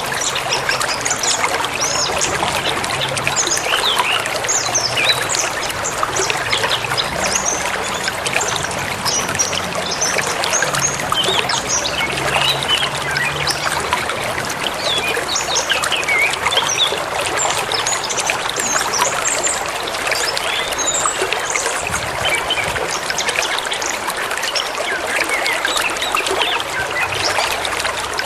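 Forest river running with a steady rush and babble, with small birds chirping and calling over it throughout.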